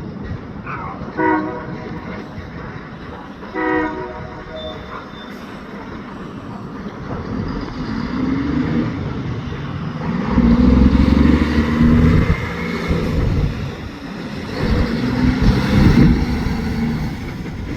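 Diesel locomotive sounding two short horn toots about two and a half seconds apart, then its engine loading up and running louder as the train starts to move.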